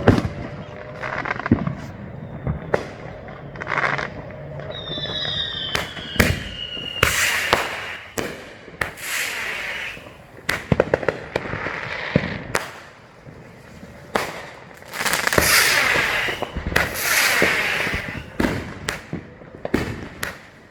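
Many consumer fireworks going off at once: a string of sharp bangs, a falling whistle about five seconds in, and long stretches of dense crackling in the second half.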